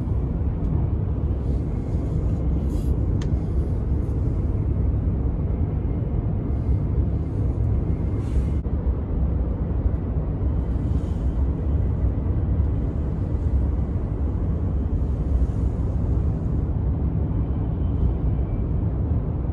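Shinkansen running at speed, heard from inside a Gran Class car: a steady low rumble of the train in motion, with faint brief hisses now and then.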